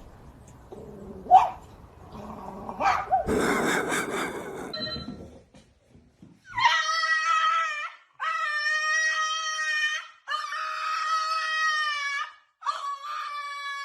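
A dog howling: four long, steady-pitched howls, one after another, in the second half. Earlier there are scattered rustling noises and one sharp knock about a second in.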